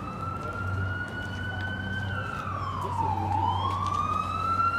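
Emergency vehicle siren wailing: the tone climbs slowly, drops about two to three seconds in, then climbs again, over a steady low hum.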